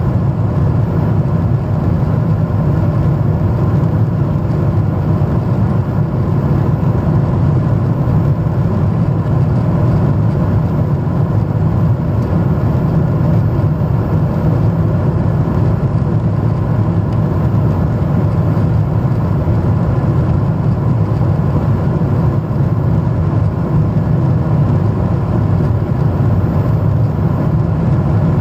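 Steady jet airliner cabin noise: the engines and airflow giving a constant low rumble with a faint steady whine above it.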